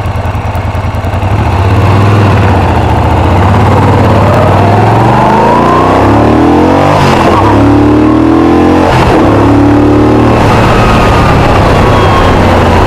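Moto Guzzi V10 Centauro's 90-degree V-twin engine accelerating under load, its revs climbing, with two brief breaks about seven and nine seconds in as the rider changes up a gear, then pulling steadily.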